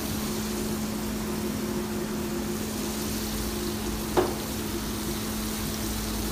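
Tomato gravy sizzling gently in a wok over a steady kitchen hum. About four seconds in there is a single knock as chopped green chillies are scraped off a wooden chopping board into the wok.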